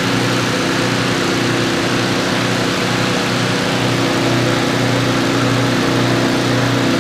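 Fire engine's diesel engine running steadily at a constant speed, a loud, even drone.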